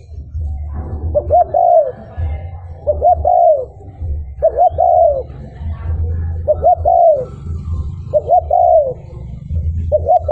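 Spotted dove cooing: a phrase of two quick notes ending in a longer falling coo, repeated about every one and a half to two seconds, six times, over a low rumble.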